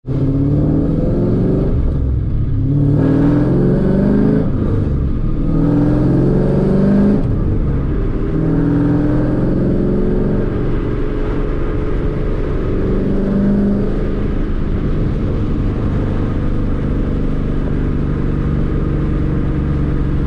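Car engine heard from inside the cabin, accelerating through the gears: its pitch climbs three times in the first seven seconds and drops at each shift. It then runs steadily at cruising speed.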